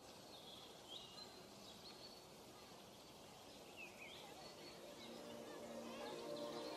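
Faint bird chirps, short high calls repeated irregularly over a soft outdoor hiss. Soft ambient music fades in during the last couple of seconds.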